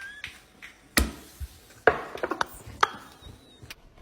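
A handful of sharp, irregular knocks or taps, the loudest about a second in and just before two seconds, with a quick run of lighter taps after.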